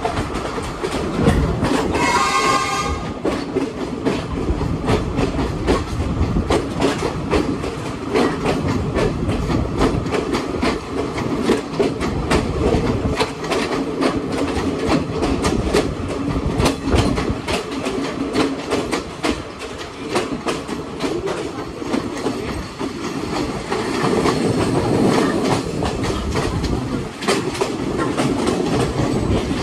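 Passenger train running, heard from inside the carriage: a steady rumble, with wheels clicking over the rail joints throughout. A brief high-pitched sound comes about two seconds in.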